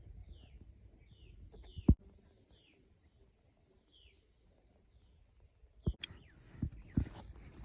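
A bird calling over and over in short, high, falling chirps about twice a second, thinning out after about four seconds. A few sharp knocks come in, one loud one about two seconds in and a cluster near the end.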